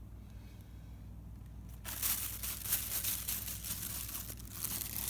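Crinkling and crumpling, like plastic or paper being handled, starting about two seconds in and going on as a dense crackle.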